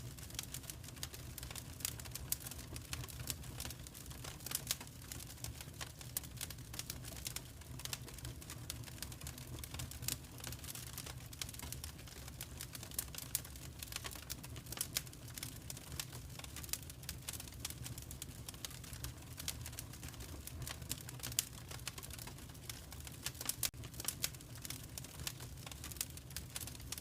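Wood fire crackling in a fireplace: many small irregular pops and snaps over a low steady rumble of the flames.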